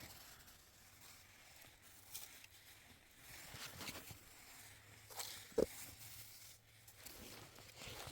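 Faint scattered knocks and rustles of someone moving about and handling things, with one sharp knock about five and a half seconds in.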